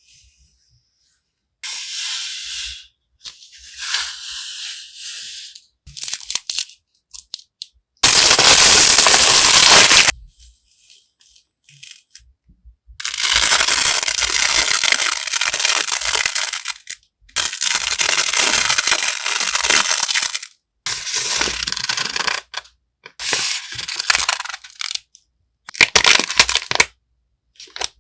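Unboxing stationery: packaging and paper crinkling and rustling as items are handled and unwrapped. There are several stretches of noisy rustling, the loudest a two-second burst about 8 seconds in, with longer ones in the middle and short crinkles and clicks between them.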